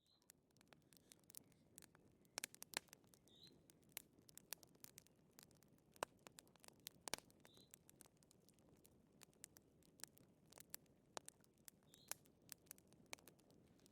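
Wood fire crackling in a fireplace: quiet, irregular sharp pops and snaps over a low soft burning rustle.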